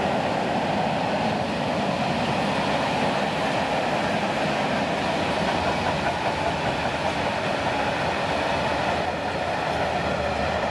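Wheels of a long freight train of open-top gondola wagons rolling on the rails: a steady, even rolling noise.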